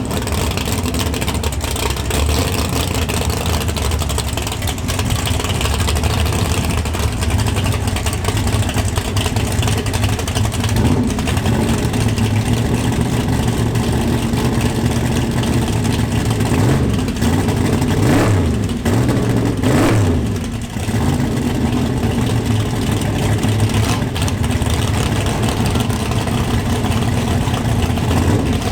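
Muscle car V8 exhausts running steadily, with an engine revved up and back down twice about two-thirds of the way through.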